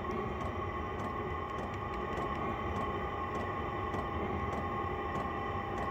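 Vevo 5 kW diesel air heater running steadily: a constant hum of its blower and burner with a few steady tones over a low rumble.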